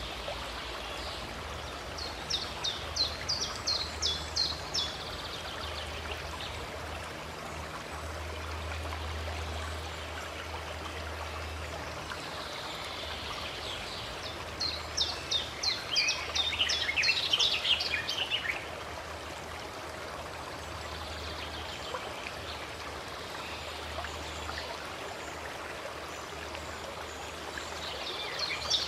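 Running stream water with a steady rush, and a songbird singing rapid high trills in bursts: one about two seconds in, a longer one around fifteen seconds in, and another starting near the end.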